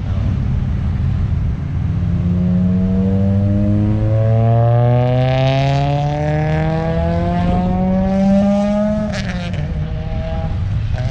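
A vehicle's engine accelerating hard, its pitch climbing steadily for several seconds, then dropping off sharply about nine seconds in, as the throttle comes off or the vehicle passes.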